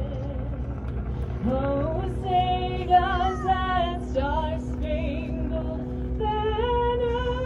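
A woman singing a slow melody with held, gliding notes, with music, over a steady low rumble.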